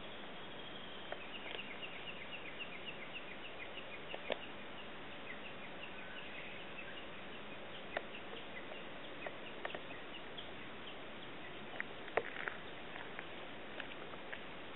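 Outdoor ambience with a steady hiss. For the first few seconds a bird in the background chirps a rapid string of short high notes. Scattered sharp clicks, the loudest about twelve seconds in, come from the cat biting and chewing a sprig of silvervine leaves.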